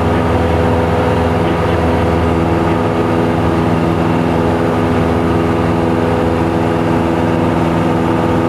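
Light aircraft's piston engine running steadily, heard from inside the cabin: an even drone that holds the same pitch and level throughout.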